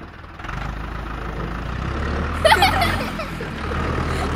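Engine idling with a steady low hum, and a brief high chirp about two and a half seconds in.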